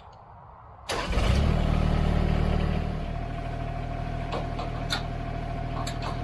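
TYM T224 subcompact tractor's diesel engine starting about a second in, running faster and louder for a couple of seconds, then settling to a steady idle with a thin steady whine above it.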